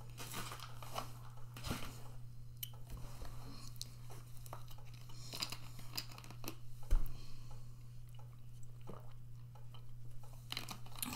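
Mouth chewing and crunching freeze-dried ice cream, with small crackles of a plastic water bottle being handled and its cap twisted, and one sharper knock about seven seconds in. A steady low hum runs underneath.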